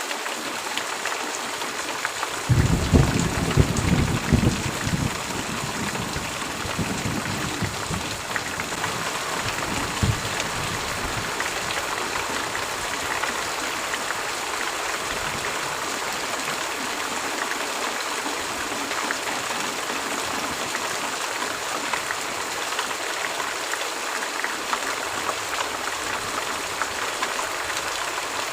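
Steady heavy rain falling. A few seconds in, a low roll of thunder rumbles for several seconds, with a second swell before it fades.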